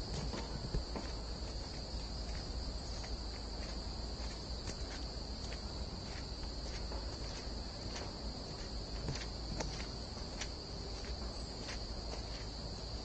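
A steady, high insect chorus of crickets or cicadas in a summer forest, with the walker's irregular footsteps on the soft forest path.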